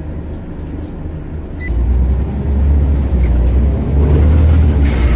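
Scania OmniCity bus engine and drivetrain heard from the front seat, running low and steady, then getting much louder about two seconds in as the bus pulls away under power. A short electronic beep sounds just as the engine note rises.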